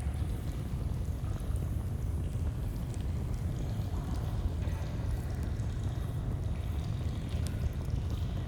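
Flowing stream rushing steadily, heaviest in the low end, with a few faint crackles and pops from a campfire scattered through it.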